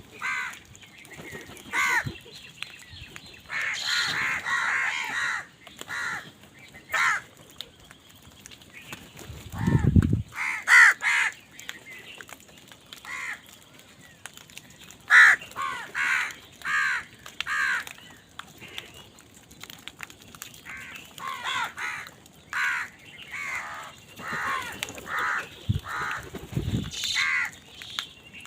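Crows cawing loudly over and over, harsh calls in quick runs from more than one bird. A brief low rumble comes about ten seconds in and again near the end.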